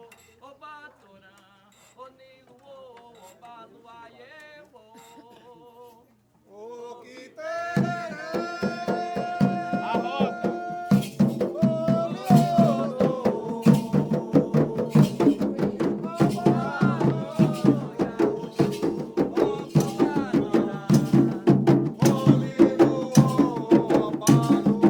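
Candomblé ritual music: a single voice sings quietly, then about eight seconds in hand drums and a group of singers come in loud and settle into a fast, steady drum rhythm with chanting over it.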